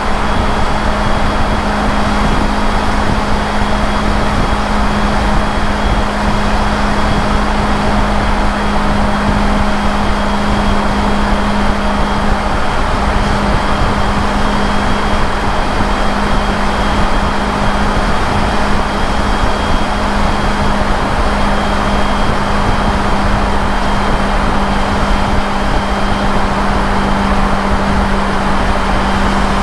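Motorcycle cruising at steady highway speed: a constant engine hum under a heavy, even rush of wind and road noise on the rider's microphone.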